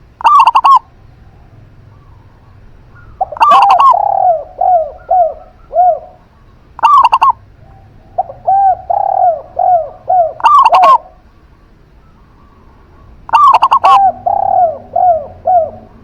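Doves cooing in repeated phrases a few seconds apart. Each phrase opens with a loud, short, rough note, followed by a run of four to six short, rounded coos that fall slightly in pitch.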